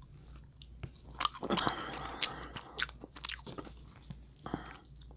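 Close-up eating sounds from a seafood boil: chewing and crunching with a quick series of sharp cracks and clicks, starting about a second in.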